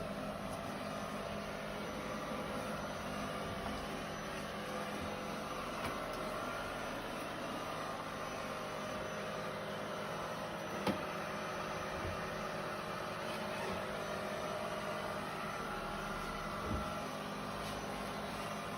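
Roomba robot vacuum running with a steady motor whir, broken by a few light knocks, the sharpest about eleven seconds in.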